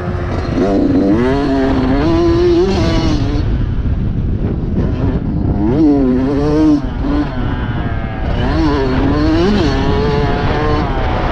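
Motocross bike engine being ridden hard, its pitch climbing and dropping again several times as the throttle is opened and shut, over a steady rushing noise.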